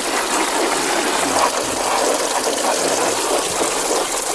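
Steady spray of running water pouring from the shower of a small toy car wash.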